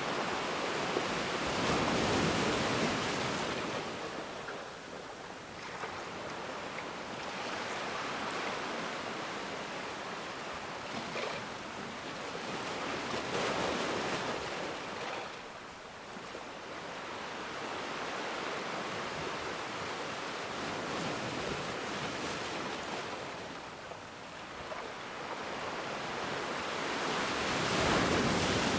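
Ocean waves breaking and washing on a shore: a steady hiss of surf that swells and ebbs, with louder breakers about two seconds in, around fourteen seconds and near the end.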